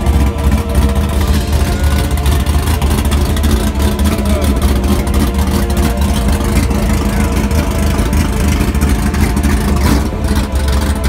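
Car engine idling, a steady low drone that holds the same pitch throughout, with people talking in the background.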